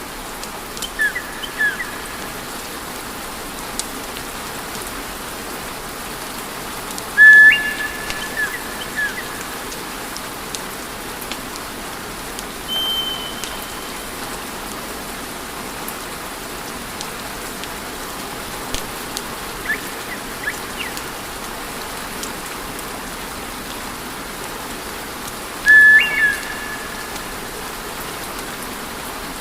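Wood fire burning in a fireplace: a steady hiss of flames with scattered small crackles and pops. Short high whistling tones break through several times, loudest twice, about seven seconds in and near the end.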